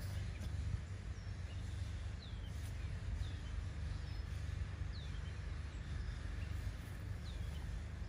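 Small birds giving short, high chirps that fall in pitch, repeated roughly every second, over a steady low rumble.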